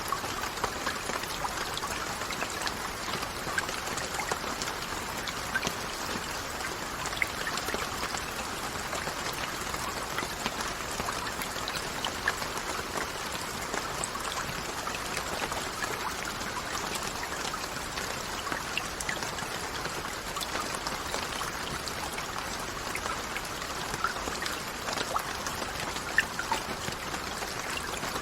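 Steady rainfall: a continuous, even hiss with single drops striking close by here and there.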